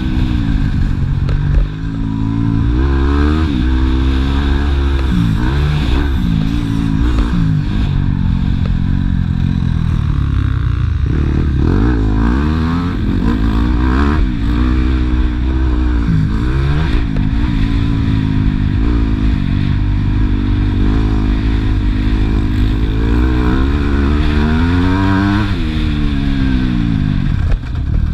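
Motocross bike engine revving hard and easing off over and over, its pitch climbing and dropping every second or two as the rider opens and shuts the throttle and shifts gear.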